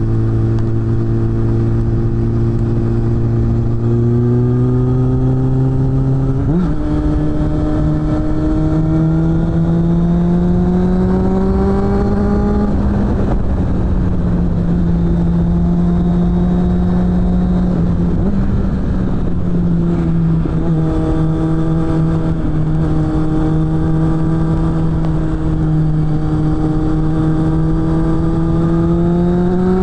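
Suzuki GSF600 Bandit's inline-four engine through a BOS aftermarket exhaust, riding along at steady throttle, with the engine pitch climbing under acceleration several times: a step about four seconds in, a quick rise about six seconds in, a longer climb soon after, and another rise near the end. Steady wind and road noise runs underneath.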